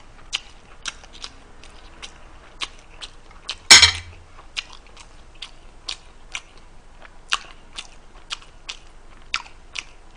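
A man chewing a mouthful of food, with short wet mouth clicks coming irregularly two or three times a second. One louder clatter about four seconds in.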